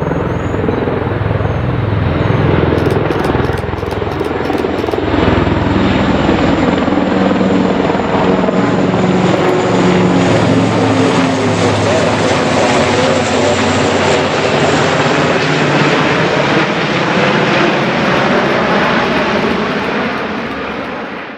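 Aircraft engines running loud and steady close by, a dense roar with a low steady hum under it that fades just at the end.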